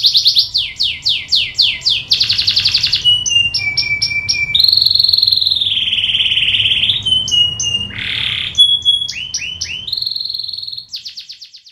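Domestic canary singing a long, varied song: rapid trills, runs of falling sweeps and held whistled notes, fading out near the end.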